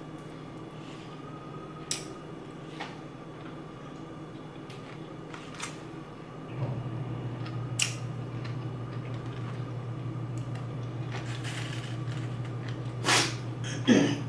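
Quiet eating sounds: a few sharp clicks and taps, as of a spoon and food container, over a steady low hum that steps louder about halfway through.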